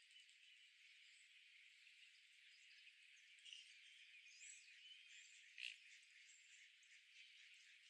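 Faint outdoor park ambience: a steady high hiss with a few small, distant bird chirps, one short sharper chirp standing out about halfway through.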